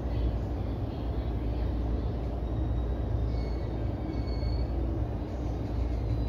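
E233 series electric commuter train running, heard from inside the driver's cab: a steady low rumble of wheels on the rails, with a faint high whine briefly past the middle.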